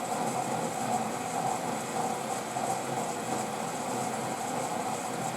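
Washing machine running steadily during its third rinse, an even mechanical hum.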